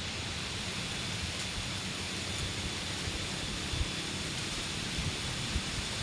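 Strong wind blowing steadily through banana plants, a constant rushing hiss with gusts rumbling on the microphone.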